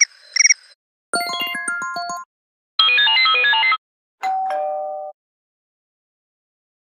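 iOS 17 iPhone alert tones played one after another: a brief high double chime, a quick run of bright synthesized notes, a dense burst of bell-like notes, and a short two-note tone, each separated by a short gap.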